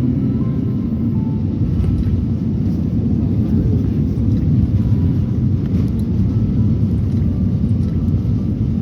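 Jet airliner cabin noise: a steady, loud low rumble of the engines and airflow heard from inside the passenger cabin.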